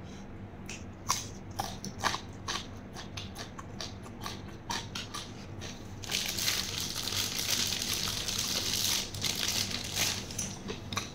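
Close-miked chewing of a mouthful of raw beef koi: many short wet clicks and crunches, then a denser hissing mouth noise for about three seconds from six seconds in.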